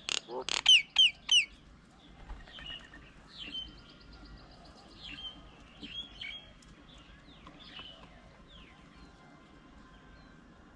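Birds calling: a quick series of loud, sharp calls that sweep down in pitch in the first second and a half, followed by scattered quieter chirps and short whistles that thin out in the last few seconds.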